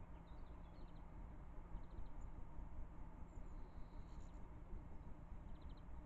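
Faint high chirps and short rapid twitters of small garden birds, heard a few times, over a steady low rumble.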